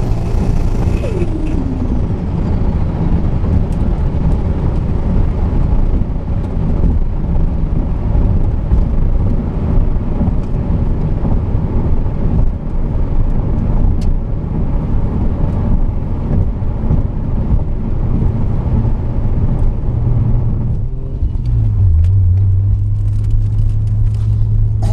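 Car being driven: steady engine and road noise, with the engine note falling in the first seconds and settling into a steady low drone near the end.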